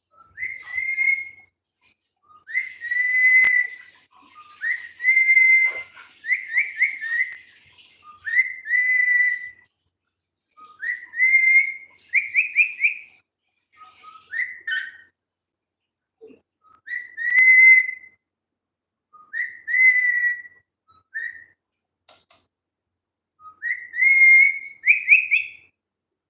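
Pet parrot whistling: about ten bouts of short, rising whistled notes, each bout a second or two long with brief pauses between.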